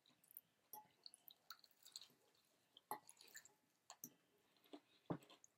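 Faint chewing and mouth sounds of someone eating fried chicken wings: scattered small wet clicks and smacks, with one louder knock about five seconds in.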